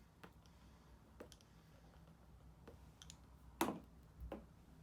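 Soft, scattered mouth clicks and lip smacks from puffing on a tobacco pipe, about six in all, the loudest just past three and a half seconds in.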